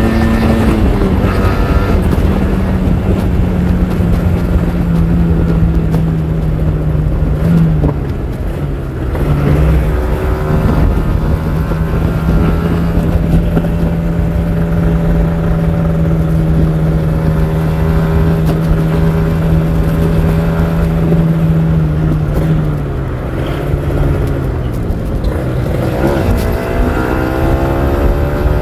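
Kawasaki Ninja R 150's single-cylinder two-stroke engine running at steady revs. The revs drop briefly about eight seconds in and again past twenty seconds, then climb near the end.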